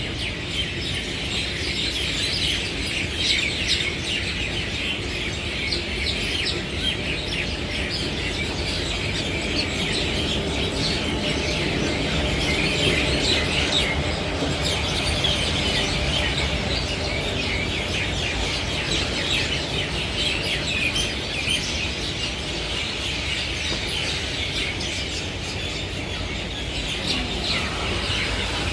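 A dense chorus of many small birds chirping and twittering without pause, over a steady low rumble.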